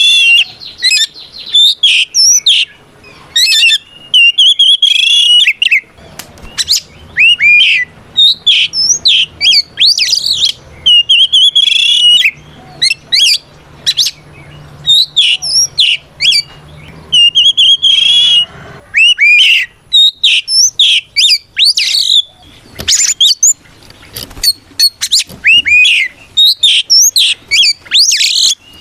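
Oriental magpie-robin (kacer) singing a loud, varied song of held clear whistles and quick rising and falling notes, phrase after phrase with short breaks. It is the full 'gacor ngeplong' song that a male uses to call out a rival.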